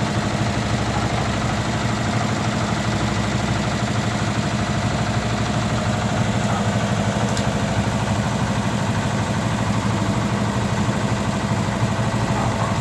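Diesel engine of a wooden squid-fishing boat running steadily at low speed while the boat maneuvers off the dock, a constant low hum.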